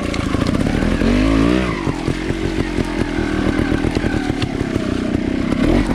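Trials motorbike engine running under the rider's throttle, revving up and falling back about a second in and then pulling steadily, as the bike is ridden at a log hop on a trail.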